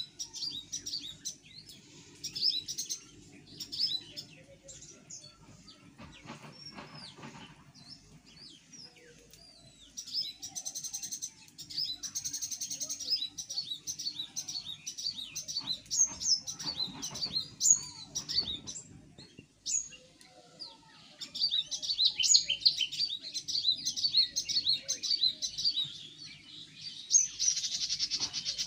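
Small birds chirping over and over, many short quick high chirps in rapid runs, with a buzzier trilled call mixed in about ten seconds in and again near the end.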